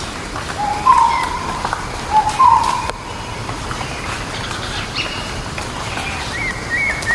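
Forest birds calling: one bird gives a two-part call twice, a short lower note stepping up into a louder, higher note, and higher-pitched chirps from other birds come in near the end over a steady background hiss.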